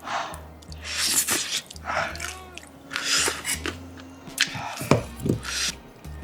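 Crunchy bites and chewing of deep-fried chicken with a crisp, long-fried crust, in several bursts of loud crackling about once a second or so, over background music.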